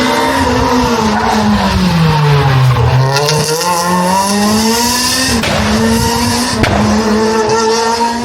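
Rally car engine at stage speed: the revs drop away into a corner, bottoming out about three seconds in, then climb back and hold, broken twice by quick gear changes. Tyre noise rises through the corner.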